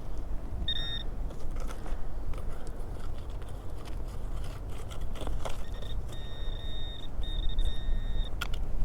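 Metal detector sounding high-pitched target tones over a buried coin: one short beep about a second in, then longer held tones from about halfway through. Wind rumbles steadily on the microphone throughout.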